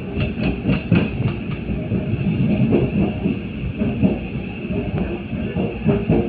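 Suburban electric local train running on the rails: a steady low rumble with repeated wheel knocks over rail joints, quick at first and then more spaced out.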